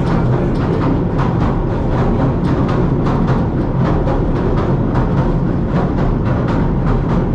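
Southend Pier Railway train running along the pier track, heard from inside the carriage: a steady low rumble with frequent irregular clacks and knocks.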